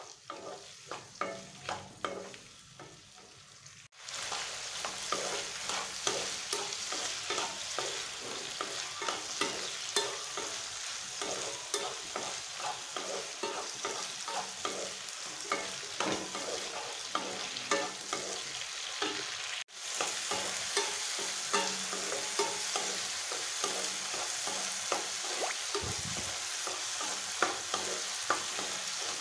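Shallots and chopped tomatoes frying in oil in a non-stick kadai, being stirred and scraped around the pan with many quick scrapes: they are being sautéed until soft for tomato chutney. The sizzling comes in suddenly about four seconds in and breaks off for an instant about twenty seconds in.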